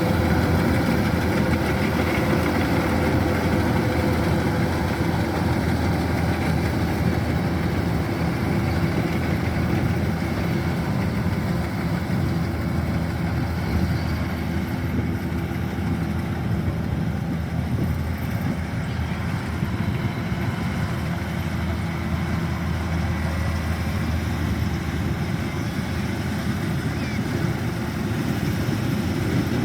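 Kubota DC-105X combine harvester's diesel engine running steadily while harvesting rice, a continuous low drone.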